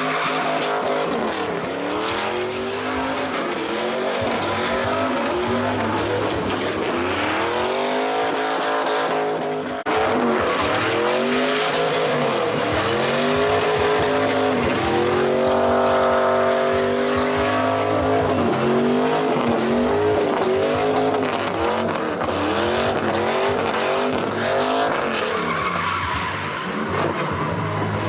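A car doing burnouts: the engine revs up and down again and again over squealing tyres, with a sudden break about ten seconds in.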